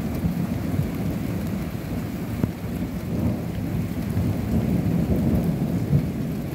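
Heavy rain with a steady low rumble, and two sharp taps about two and a half and six seconds in.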